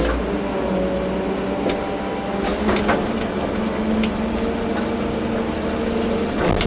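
Volvo EC240B excavator's diesel engine running steadily under load, its pitch drifting slightly as the hydraulics work. A couple of short knocks come about two and a half seconds in and again near the end.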